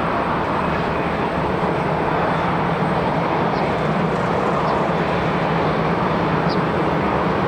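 Jet airliner on landing approach, its engines making a steady, loud noise with a low hum underneath.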